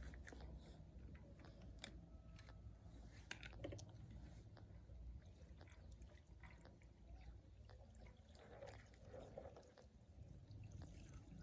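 Near silence with faint scattered small clicks and light handling noises over a low hum.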